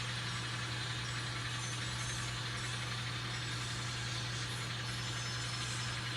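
Sound decoders of two N scale model diesel locomotives, one an Alco, playing a steady diesel engine drone through their small speakers as the train pulls along.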